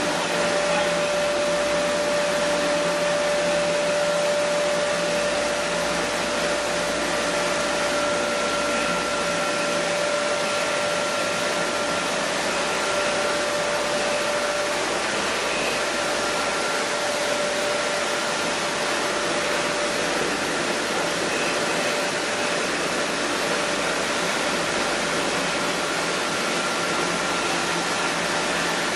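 Chili powder milling machinery running with a steady whirring rush and a faint constant hum-tone that fades about halfway through.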